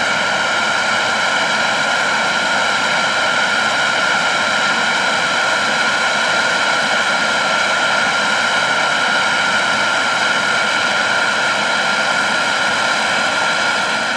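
Jet engine noise from an Airbus A320neo's CFM LEAP-1A turbofans climbing out after takeoff: a steady, unchanging rush with a prominent mid-pitched hum.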